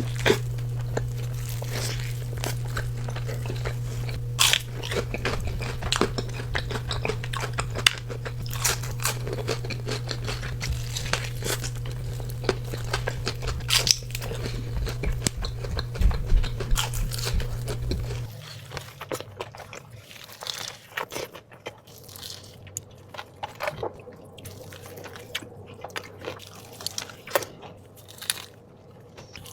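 Close-miked eating of a smash burger: repeated bites and chewing, with many short, sharp mouth clicks and crackles. A steady low hum underneath stops about two-thirds of the way through.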